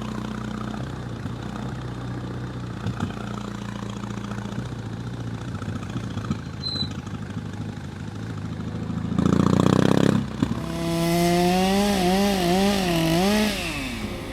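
BMW R18 Classic's big 1802 cc boxer twin running steadily, then louder about nine seconds in, its pitch rising and falling several times near the end as the throttle is blipped.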